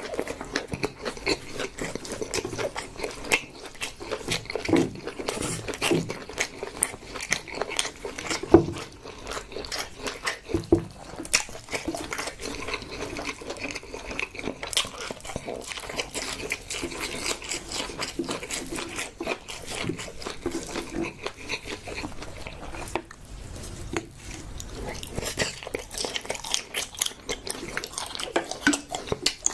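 Close-miked eating: a person biting and chewing with frequent irregular wet mouth clicks, smacks and crunches.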